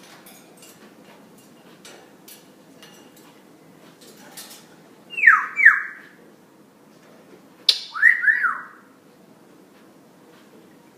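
Pet parrot whistling: two quick falling whistles about five seconds in, then a sharp click and two more short up-and-down whistles a few seconds later.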